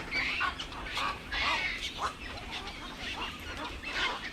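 Many birds calling at once, a dense run of short, overlapping honking calls.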